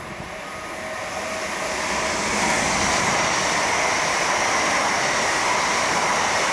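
South Western Railway Class 701 Arterio electric multiple unit running through the station, its wheel-on-rail noise building over the first two seconds or so as it nears, then holding steady and loud as the coaches pass.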